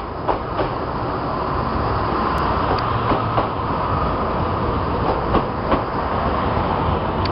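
CFR Siemens Desiro diesel multiple unit rolling past along the platform: a steady rumble of its underfloor diesel engines and running gear. Sharp wheel clicks come in pairs over a rail joint, a pair about every two and a half seconds.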